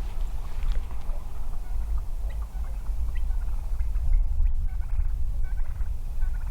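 Faint turkey calls over a loud, uneven low rumble.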